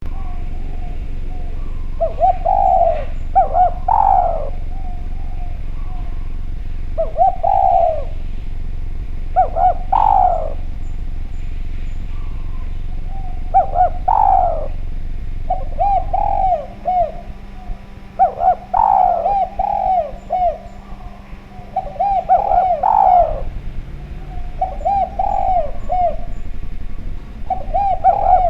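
Spotted dove (Javanese derkuku) cooing: about ten phrases, each a few short coos running into a longer final coo, repeated every two to four seconds over a steady low hum.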